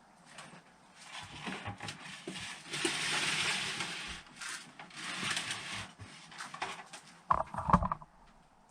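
Engine parts being handled on a workbench: a rubbing, scraping noise for a few seconds, then a short clatter of knocks near the end.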